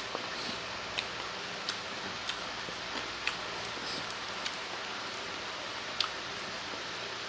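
Chewing and eating chicken feet: irregular sharp clicks and small wet smacks over a steady hiss.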